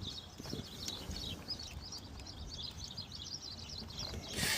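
Small birds chirping busily in the background, many quick high chirps over a low rumble, with a few faint clicks and a short hiss near the end.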